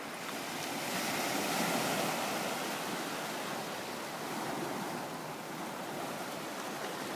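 Surf breaking and washing up a beach, a steady rush that swells a little in the first two seconds and then evens out.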